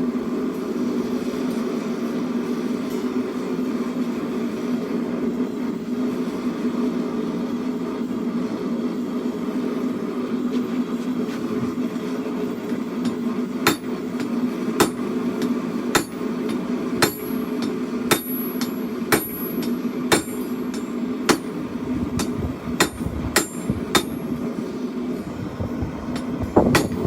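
Propane forge burner running with a steady hum. About halfway in, a hammer starts striking hot steel on an anvil, a series of sharp ringing blows at roughly one to two a second.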